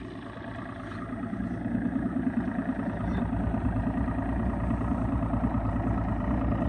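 An engine running steadily at a low rumble, getting louder over the first couple of seconds and then holding.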